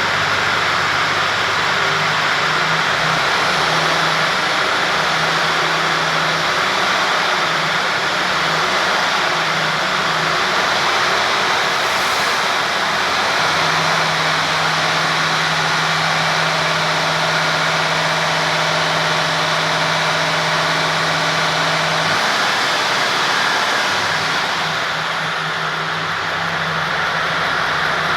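MAN TGX 26.440 truck's 12.4-litre straight-six diesel idling steadily, its low hum changing tone slightly a couple of times.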